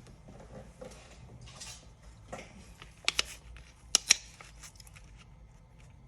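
Scattered small clicks and taps of hands and tools handling an iPad on a workbench. A few sharper clicks come about three seconds in and the loudest about four seconds in.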